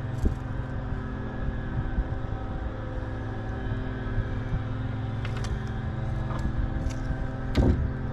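A steady motor hum with evenly spaced overtones, broken by a few sharp clicks and a louder knock near the end, as the hooks are worked out of the fish with pliers.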